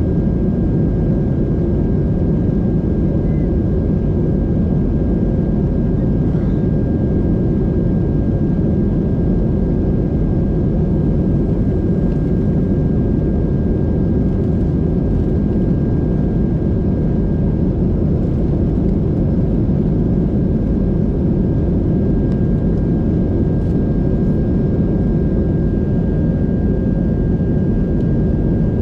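Steady low rumble of a moving vehicle in travel, with a faint steady high whine above it.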